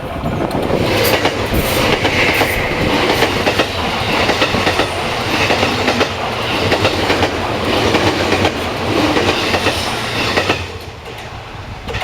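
A train passing close by, its wheels clicking rhythmically over the rail joints. The noise drops off sharply about ten and a half seconds in as the end of the train goes by.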